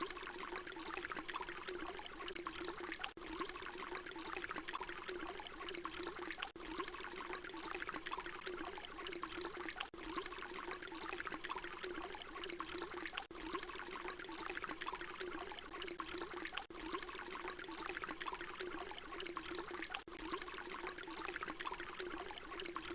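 Water pouring steadily in a continuous splashing stream with a low hum-like resonance. A short recording is looped, so a brief dropout recurs about every three and a half seconds.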